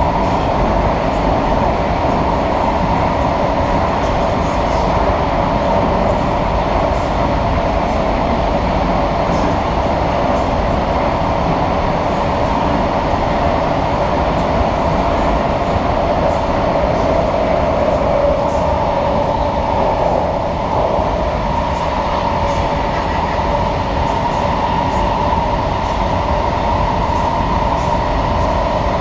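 Inside an SMRT C151A (Kawasaki-Sifang) metro train running at speed through a tunnel: a steady rumble under a loud, sustained, wavering screech. The screech is a fault that the uploader reports on some of these trains in tunnels.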